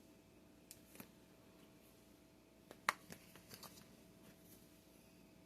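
A few light clicks and taps of kitchen containers and utensils being handled while dry batter ingredients are measured out, with one sharper tap about three seconds in, over quiet room tone.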